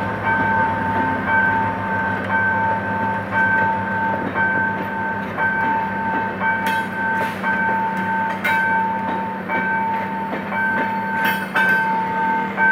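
Level-crossing warning alarm beeping in a steady repeating two-tone pattern while a passenger train's coaches roll past over the crossing, with a rumble and wheel clacks over the rail joints, sharpest about seven and eleven seconds in.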